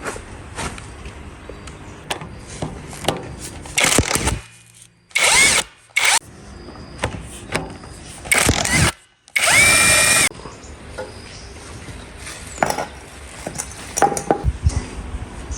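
Four short runs of a small power tool, each under a second, with a high whine that climbs in the last run. Clicks and knocks of handling come between them.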